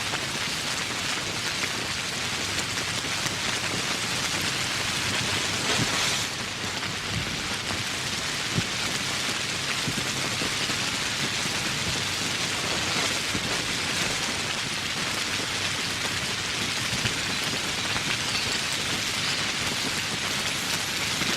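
Steady rain, a dense even patter of drops falling on surfaces.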